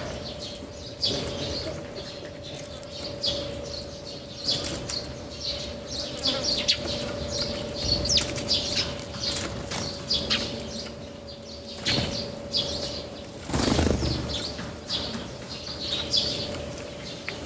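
Small birds chirping and fluttering at a seed feeding spot, with repeated short bursts of wingbeats as they fly in and out, the longest about fourteen seconds in. A faint steady hum runs underneath.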